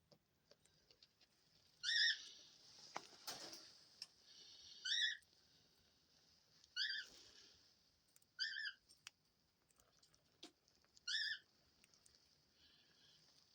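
A bird's short, high, wavering chirps, repeated five times a couple of seconds apart, with a few faint clicks between them.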